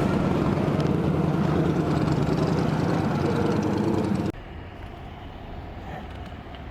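A motorcycle on the move, its engine and the wind making a loud, steady noise. About four seconds in the sound drops suddenly to a much quieter steady background.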